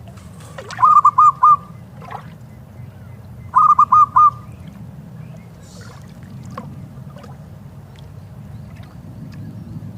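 Zebra dove (perkutut) cooing: two phrases of four quick, clipped coos each, the second about three seconds after the first, over a steady low rush of background noise.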